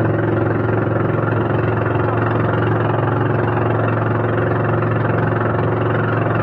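Boat's engine running at a steady speed, a loud, even drone that holds one pitch throughout.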